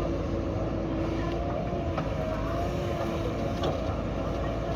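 JCB backhoe loader's diesel engine running steadily, with a whine that wavers slightly in pitch and a couple of faint clicks.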